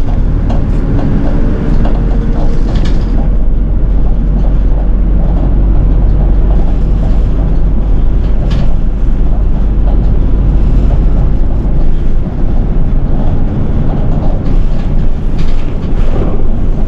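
Nishitetsu city bus underway, heard inside the cabin: a steady low rumble of engine and road noise, with scattered clicks and rattles from the bus's fittings.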